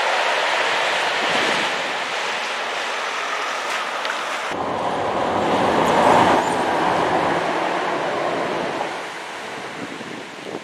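A freight train of tank wagons rolling past with a steady noise of wheels on rail. Then a diesel multiple unit passenger train runs by, loudest about six seconds in and fading as it moves away.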